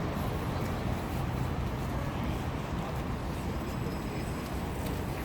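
Wind buffeting the microphone, a steady low rumble that rises and falls without a break.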